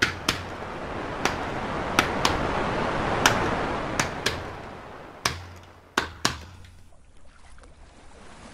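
Hand-struck percussion beats, likely an ipu gourd drum, keeping the chant's rhythm between sung lines. The strikes come as a single beat and then a quick pair, repeating about every two seconds, with a deep thump under some beats. A rushing noise swells and fades behind them, and the beats stop about two-thirds of the way through.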